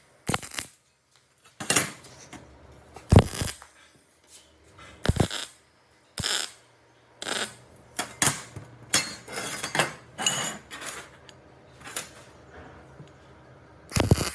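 Irregular metallic knocks and clanks, roughly one a second, some ringing briefly: metal parts being struck or handled.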